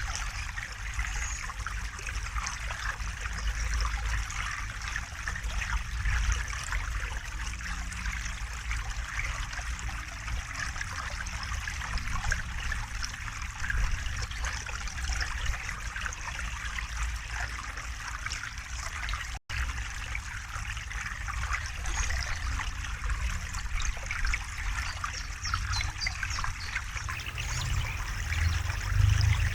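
River water flowing and trickling steadily over a low rumble. The sound cuts out for an instant about nineteen seconds in.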